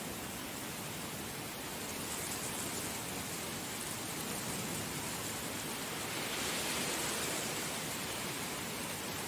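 Heavy rain falling steadily, swelling a little about six seconds in.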